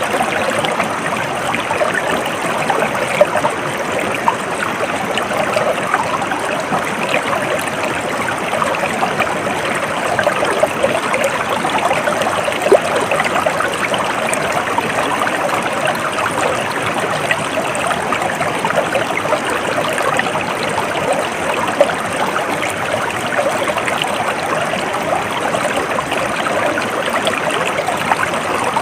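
Stream water flowing and trickling over stones, a steady babbling.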